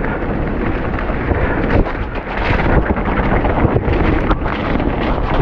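Wind rushing on the camera microphone while a mountain bike rattles down a wet, rocky trail, with many short knocks and clatters from the wheels and frame hitting the ground.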